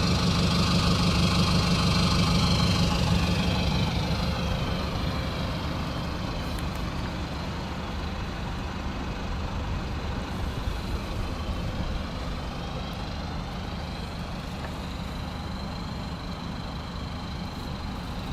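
2015 Toyota Land Cruiser Prado's engine idling steadily, growing gradually fainter after about four seconds.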